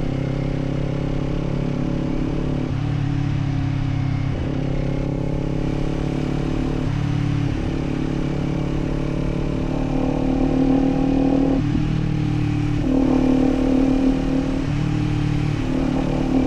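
Kawasaki Z400 parallel-twin engine and exhaust heard while riding. The engine note shifts up and down several times as the throttle opens and closes, and is a little louder in the second half.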